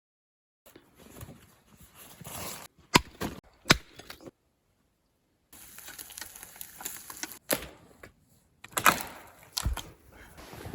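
A few sharp cracks or knocks, each standing out over a low rustling, broken by two short stretches of dead silence where the sound cuts out completely.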